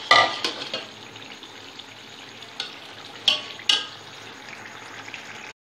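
Potatoes in a spiced tomato-yogurt masala sizzling in oil in a metal pot, with a metal slotted spoon clattering and scraping against the pot: loudest at the very start, then three sharper knocks in the second half. The sound cuts off suddenly just before the end.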